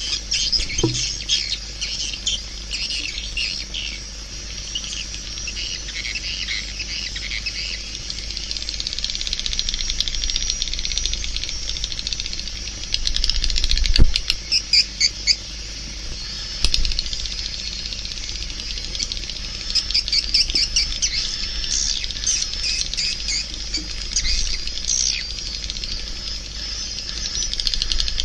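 Swiftlets chirping and twittering in a dense chorus of short, high calls and trills, with a low steady hum underneath. About halfway through, a sharp knock comes amid a quick run of louder pulses.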